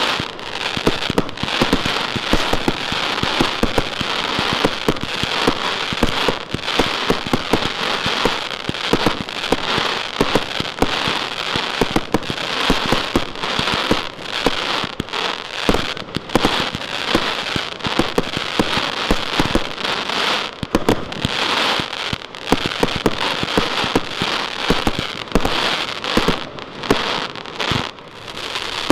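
Transbomber firecracker item going off, rapid popping bangs mixed with dense crackle, without a break for nearly half a minute.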